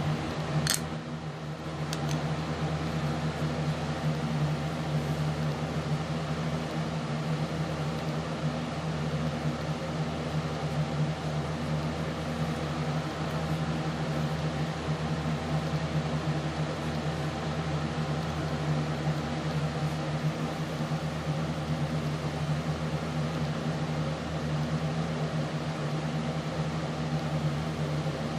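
Steady low machine hum, like a fan or small appliance running, with a brief high ping under a second in.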